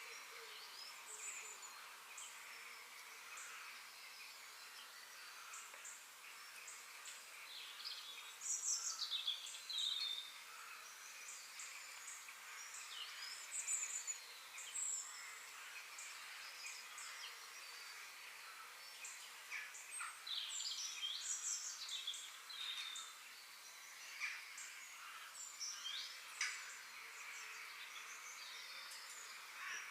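Several birds chirping and singing, with short, quick, high calls scattered through, over a steady background hiss of outdoor ambience.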